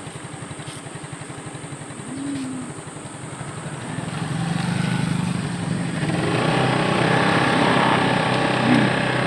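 Motorcycle engine running with a rapid, even pulse, growing louder from about four seconds in.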